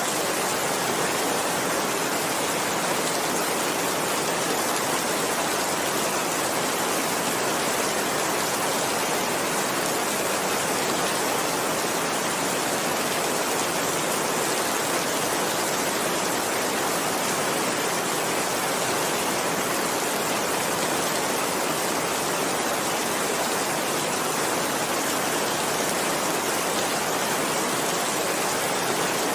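Heavy rain falling steadily, a dense, even hiss that does not let up or change.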